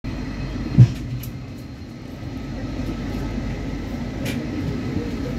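Steady low rumble of a passenger train pulling into a station, heard from inside a coach. A brief low thud about a second in is the loudest moment.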